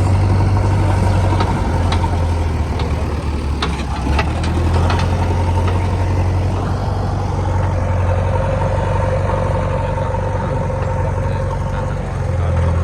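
Diesel engine of a JCB machine running steadily, with a few sharp metallic knocks about four to five seconds in.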